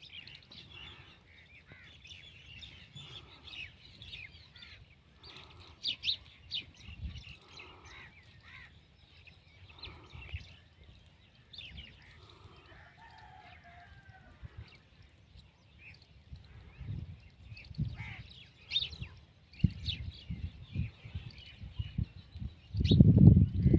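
Small birds chirping and tweeting over one another in short high notes, with scattered low thumps and a loud low rumble about a second before the end.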